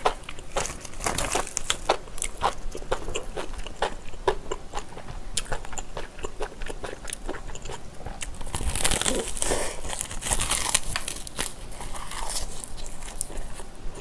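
Close-miked eating sounds: wet chewing, lip smacks and crackly bites of a raw-laver (gim) wrap filled with spicy squid and pork belly. A louder crunchy stretch comes a little past the middle.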